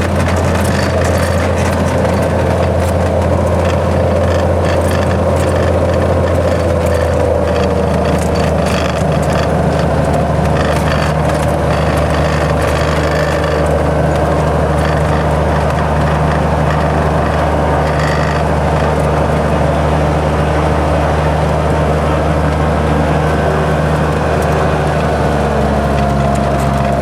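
Cessna 182's piston engine and propeller running steadily, heard inside the cabin, with the pitch easing down slightly about eight seconds in.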